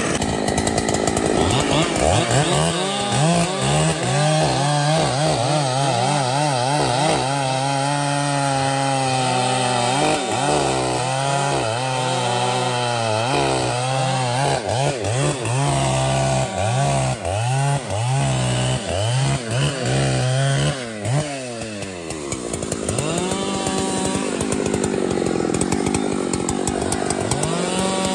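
Chainsaw cutting into a large tree, its engine speed wavering up and down under load. About three quarters of the way through the pitch drops sharply, then climbs again near the end.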